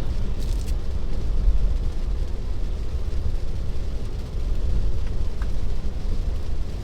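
Steady low rumble of a car's tyres and road noise heard inside the cabin while driving on wet roads in rain.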